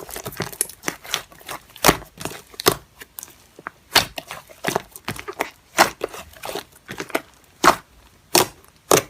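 Slime being played with by hand: a string of sharp, irregular pops and clicks, a few loud ones about a second apart with smaller crackles between.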